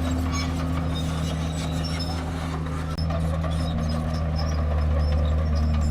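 Diesel engine of a Komatsu D31P bulldozer running steadily under work, with faint metallic ticks over the low engine drone.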